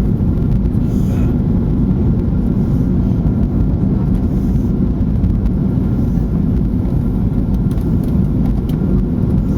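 Steady low rumble of an airliner heard from inside the cabin: engine and airflow noise, unchanging throughout.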